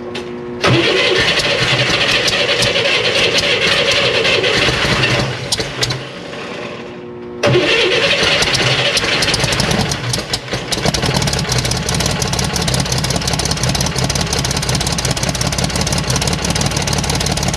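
Rebuilt air-cooled flat-six of a 1965 Chevrolet Corvair Monza 110, with a new cam, heads and headers, started for the first time. The starter cranks and the engine catches within the first second and runs for about five seconds, then dies. It is cranked again and catches about seven seconds in, stumbles briefly around ten seconds, then keeps running steadily.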